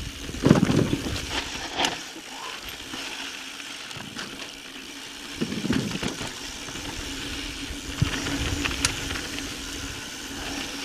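Mountain bike riding down rocky singletrack: tyres rolling and crunching over dirt and rock, with chain and frame rattle and a few sharp clicks. Heavy low rumbles come about half a second in and again about five and a half seconds in.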